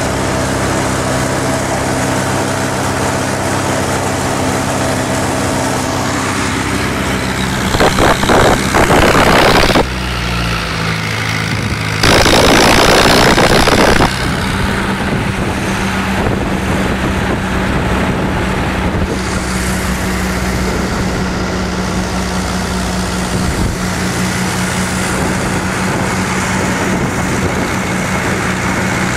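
Someca 750 DT tractor engine running steadily, with two loud, rough stretches of about two seconds each, a little under and a little over ten seconds in.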